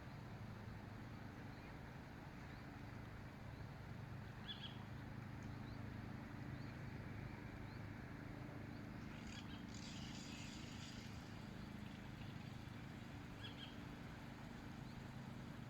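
Faint outdoor ambience: a steady low motor hum with a few short bird chirps, one about four seconds in and one near the end, and a longer bird call about two-thirds of the way through.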